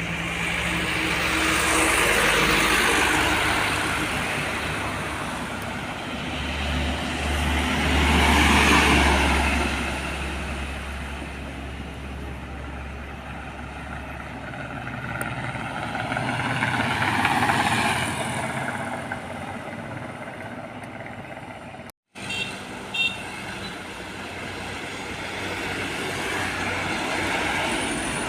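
Road traffic with heavy trucks and cars passing one after another, each swelling and fading, with a deep diesel engine rumble under one pass in the middle. About two-thirds of the way through the sound cuts out for an instant.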